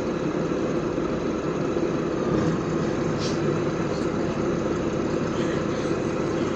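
LiAZ 5292.65 city bus driving along, heard from inside the cabin: a steady engine drone mixed with road noise, with a brief click a little over three seconds in.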